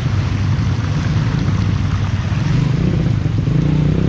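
Trail motorcycle engine running while the bike is ridden. The engine note eases off in the middle and picks up again near the end.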